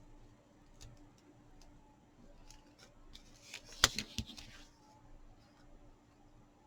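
Thin clear plastic film crinkling and crackling as it is peeled off a diamond-painting canvas, a short burst about three seconds in with one sharp click in it. Faint light ticks before and after.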